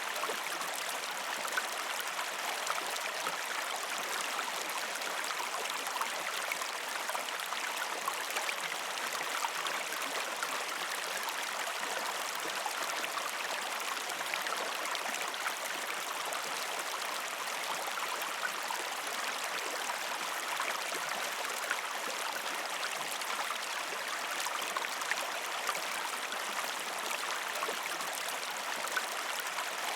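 A river stream flowing over rocks: a steady rush of water with small gurgles and splashes.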